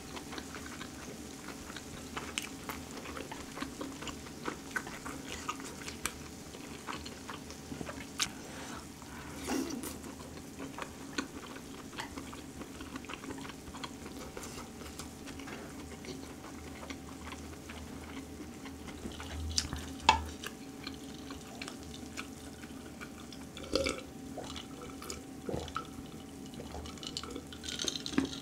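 Close-miked chewing and wet mouth sounds of someone eating grilled duck ribs, with small scattered clicks, over a faint steady hum. Near the end, sips from a glass mug.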